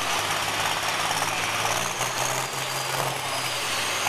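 Heavy engine of a pulling vehicle running loud and steady, a low hum that shifts slightly in pitch under a rushing noise.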